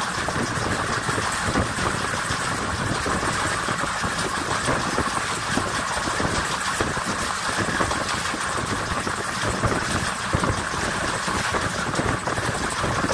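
Steady rumble and rushing noise of a moving passenger train, heard through an open coach window.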